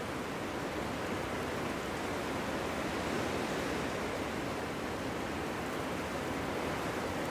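Wind blowing steadily through a forest: an even rush of noise with no gusts, breaks or separate sounds.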